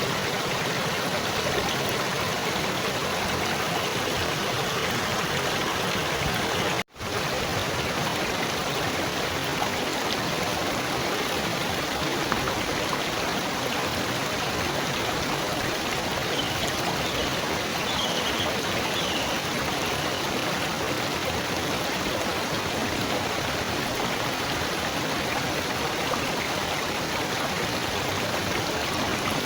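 Steady trickling of running water, an even rushing babble that breaks off for an instant about seven seconds in.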